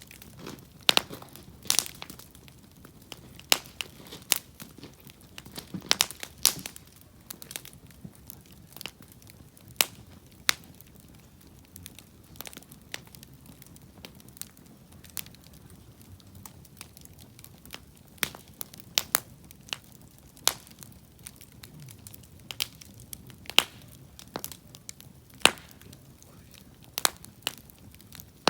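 Wood campfire crackling, with irregular sharp pops and snaps from the burning firewood, a few louder than the rest.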